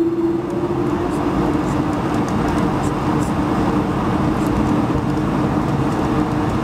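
Airbus A220-100's Pratt & Whitney PW1500G geared turbofan engines running, heard from inside the cabin: a steady drone with a steady hum running through it.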